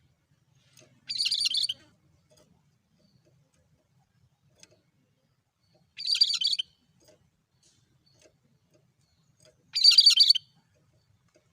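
Cucak kerinci calling three times. Each call is a short, rapid, high chattering phrase of under a second, repeated the same way with pauses of several seconds between.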